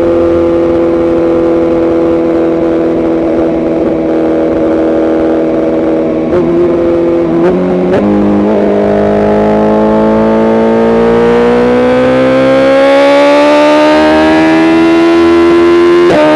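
Tuned BMW S1000RR's inline-four engine under way: steady for several seconds, a few quick gear changes about six to eight seconds in, then revs climbing slowly through the gear until an upshift near the end.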